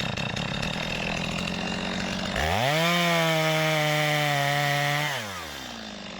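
Two-stroke chainsaw running at idle, then revved up to full throttle about two and a half seconds in. It holds high revs for roughly two and a half seconds, then the throttle is released and the engine winds back down to idle.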